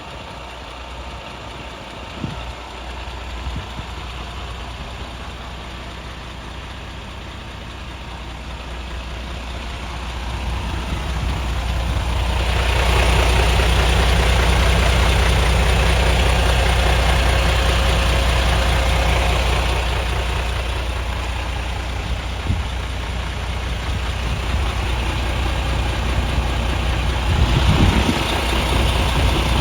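MAN TGX 18.540 truck's 12.4-litre inline-six diesel engine running at idle with a steady low hum. It grows louder and fuller about ten to thirteen seconds in, then eases off after about twenty seconds and swells again near the end.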